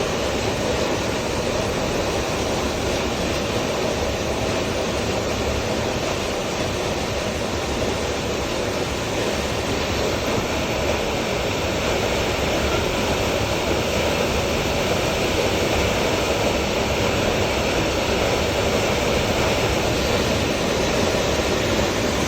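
Hailstorm: hail and heavy rain pelting down in a dense, steady rush of noise that grows slightly louder toward the end.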